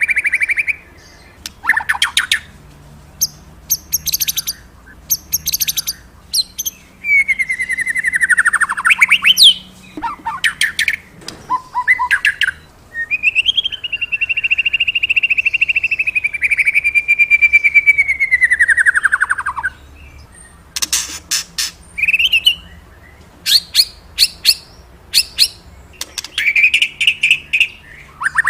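A murai, a Copsychus songbird, singing: long whistled phrases that slide up and down in pitch, broken by quick runs of short chattering notes.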